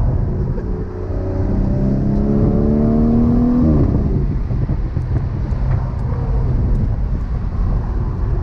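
2017 BMW 340i's B58 turbocharged inline-six, with muffler delete and catless downpipe, revved from idle. The exhaust note climbs in pitch for about three seconds, then drops sharply back to a loud, rough idle rumble.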